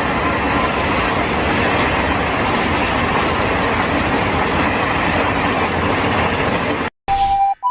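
Train passing over the tracks: steady rail and wheel noise. About seven seconds in it cuts off abruptly and a level-crossing alarm starts, sounding two steady electronic tones.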